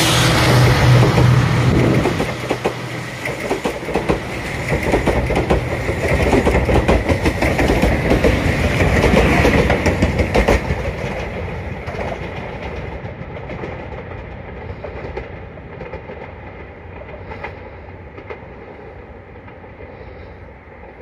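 Diesel train passing close by: a loud engine drone at first, then wheels clacking over rail joints for about eight seconds, then the sound fading as the train moves away.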